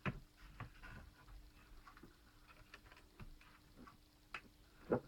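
Light, irregular clicks and taps of plastic laptop case parts being pushed and worked into place, with a sharper knock near the end.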